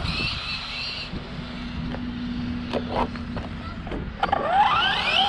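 Hobby-grade RC short course truck's 3100kv brushless electric motor on 4S: a high whine fading out in the first second, a few sharp knocks, then from about four seconds in a steeply rising whine as the truck accelerates hard.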